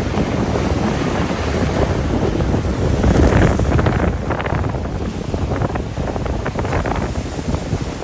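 Strong wind buffeting the microphone over surf washing on the beach, loudest about three seconds in.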